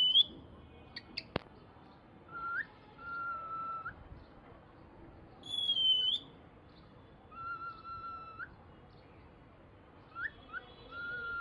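Bird calls: a loud, high whistled note that dips and rises again, heard twice, and between them several long, level, lower whistles, each ending in a quick upward flick.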